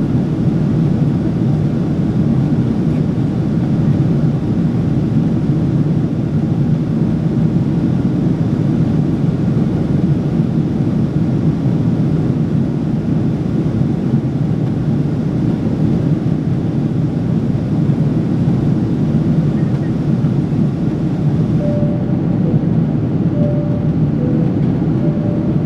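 Steady cabin noise of a Japan Airlines Boeing 777-300 airliner in flight: a constant low rumble of engines and airflow around the fuselage.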